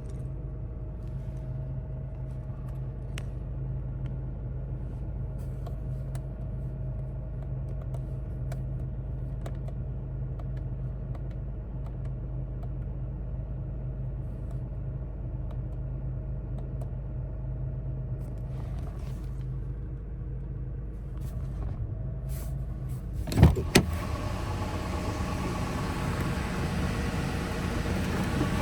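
A 2016 Toyota Tacoma's 3.5L V6 running at a steady idle. About 23 seconds in there are two sharp knocks close together, and after them the engine noise grows louder and rougher.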